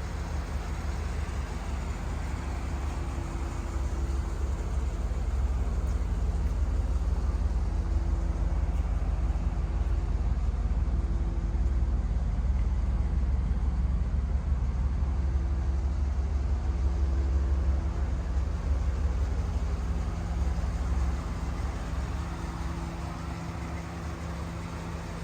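1986 Pontiac Firebird Trans Am's V8 engine running steadily at an even speed, a low rumble that eases off a little near the end.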